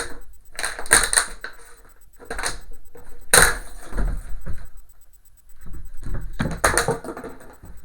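A puppy at play fetching a toy: several bouts of knocking and scuffling as it scrambles and the toy bumps on the floor.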